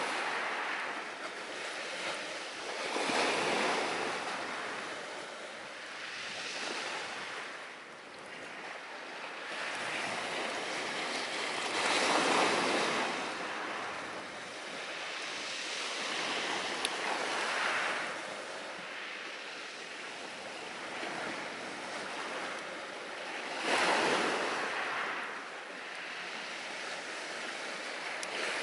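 Ocean surf washing on the shore, each wave swelling and receding about every five to six seconds, with a single faint click about two-thirds of the way through.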